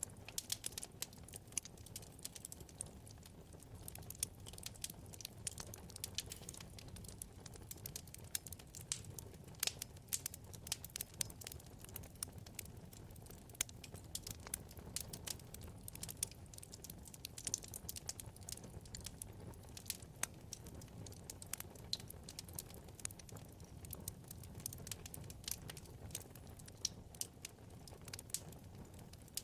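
Wood fire burning in a fireplace: frequent irregular sharp crackles and pops from the burning logs over a low steady rumble of the flames.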